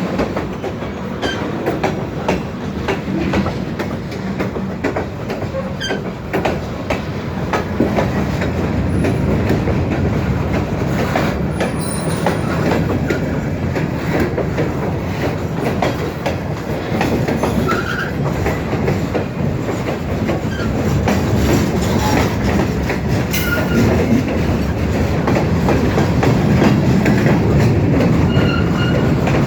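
Great Lakes Central freight train rolling past, its wheels clacking steadily over the rail joints, with a few brief high wheel squeals in the second half.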